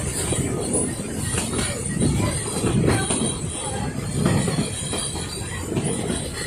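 Narrow-gauge steam train on the move: carriages rumbling and clattering over the track, with a steady high-pitched wheel squeal.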